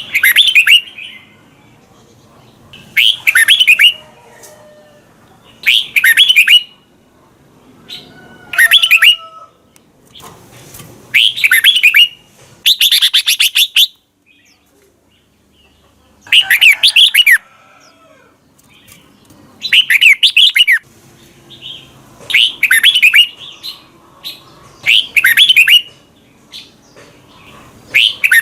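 Red-whiskered bulbul singing short, bright, warbling phrases about a second long, repeated every two to three seconds with one longer pause about halfway, and fainter calls between phrases.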